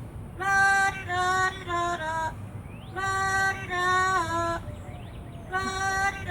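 Pet parrot singing a tune: phrases of a few steady, held notes, the last note of each stepping down, with short pauses between and faint squeaky chirps in the gaps. A new phrase starts near the end.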